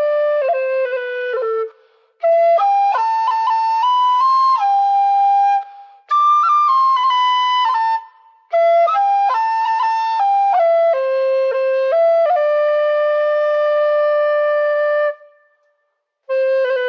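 A solo flute playing a slow melody in phrases, each held note steady, broken by short pauses, the longest near the end.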